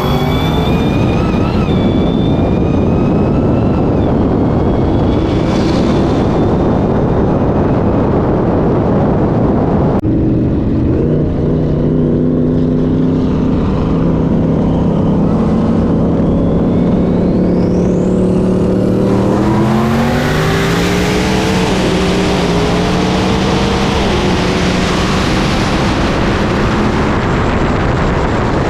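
High-performance car engines pulling hard at full throttle in a roll race, with engine pitch climbing and stepping through gear changes over loud wind and road noise. The sound changes abruptly about ten seconds in.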